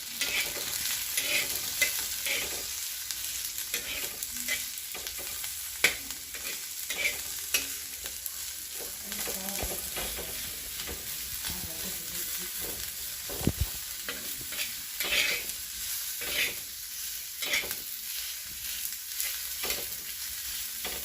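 Chopped onion frying in oil on a tava over a low flame, a steady sizzle with frequent scraping clicks as it is stirred while it browns. There is one dull knock about two-thirds of the way through.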